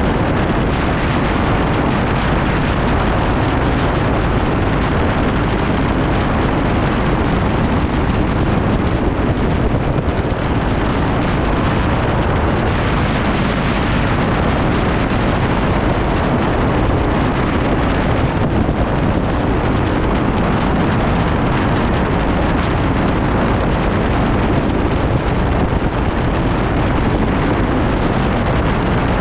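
Motorcycle at steady cruising speed: a constant rush of wind over the microphone with engine and road noise underneath.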